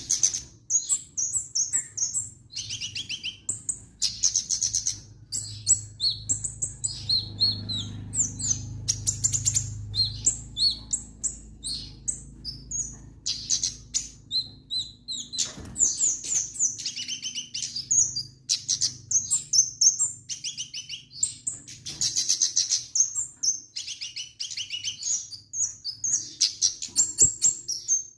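A caged kemade songbird singing on and on in quick, high chirps and trills, the sign of a bird in full song.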